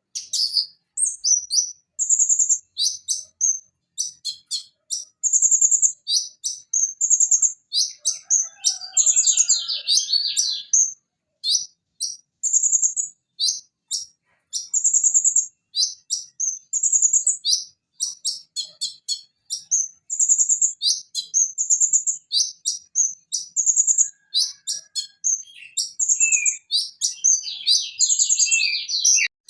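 Van Hasselt's sunbird (konin) singing: a quick, almost unbroken string of high, thin chirps and short buzzy trills, with a brief lower warble about nine seconds in.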